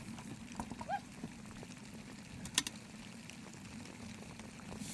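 Food cooking over a fire, a steady low sizzling and bubbling, with one sharp click about two and a half seconds in.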